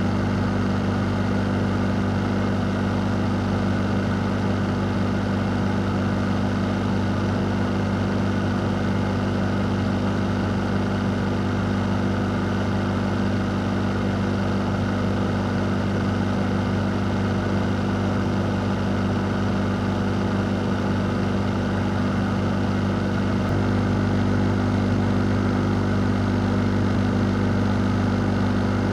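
A fan running steadily: an unchanging low hum under an even rush of air.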